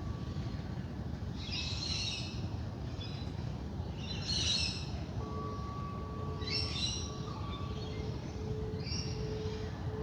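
Dawn-chorus birds giving short, harsh chattering calls, four bursts about every two and a half seconds, over a steady low rumble. A soft singing-bowl tone hums underneath and from about halfway pulses slowly on a lower note.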